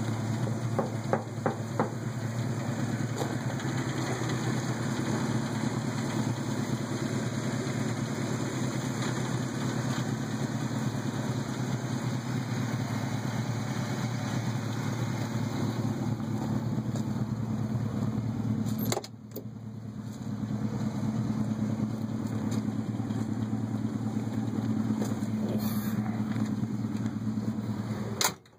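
Car engine idling steadily, a low even hum, with a few handling clicks in the first couple of seconds; the sound drops away briefly about two-thirds of the way through and then returns.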